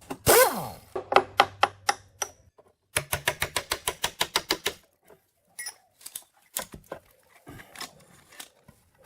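Metal tool clicks from a socket wrench set: a loud ringing clank at the start, then runs of rapid, even clicks like a ratchet being worked, fastest from about three seconds in, followed by scattered lighter clinks.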